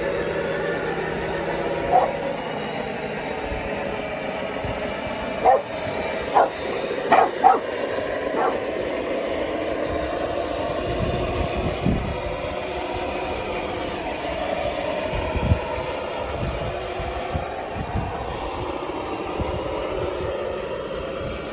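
DXR2 RC bulldozer's drive motors and gearing running steadily as it works dirt on its wide tracks, while a dog barks about six times, mostly between five and nine seconds in.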